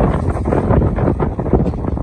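Yanmar F535 tractor's diesel engine running while pulling a plough, with wind buffeting the microphone.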